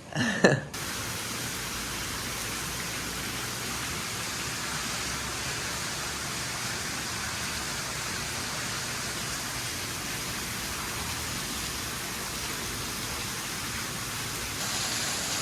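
Steady, even rushing hiss with no pitch or rhythm, stepping a little louder near the end. A short voice is heard at the very start.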